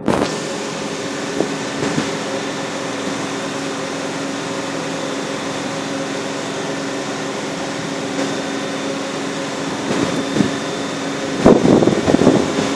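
A boat's engine and machinery droning steadily, a low hum with several steady tones. A louder, uneven noise joins in near the end.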